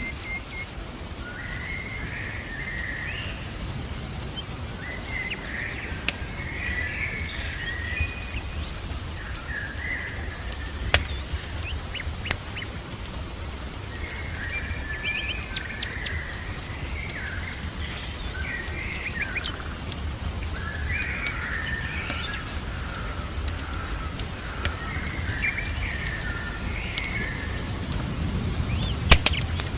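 Small birds chirping and calling in short repeated phrases, with sharp crackling clicks from a wood fire scattered through and a steady low rumble underneath. A louder crack comes near the end.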